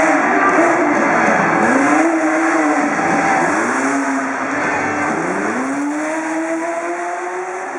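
Off-road competition truck's engine revving hard, its pitch dropping and climbing back up about three times as the throttle is worked, and growing a little quieter toward the end.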